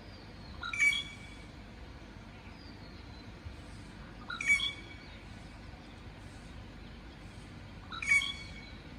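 A bird giving three short, loud calls evenly spaced about three and a half seconds apart, with fainter high chirps in between.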